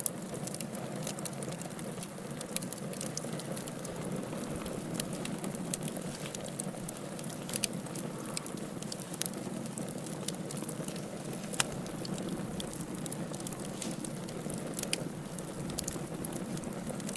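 Wood fire crackling in a fireplace: a steady low rumble of flames with frequent sharp pops and snaps scattered irregularly, one louder snap about eleven and a half seconds in.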